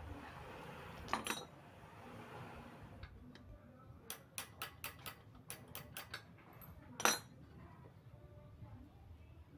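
Light metallic clicks and clinks of bike parts or tools being handled: a short cluster about a second in, then about ten quick irregular clicks, and one louder clink near the end.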